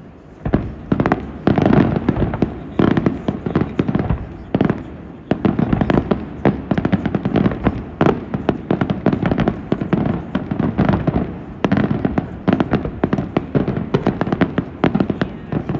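Fireworks going off in a rapid, dense volley of bangs, several a second, with no break.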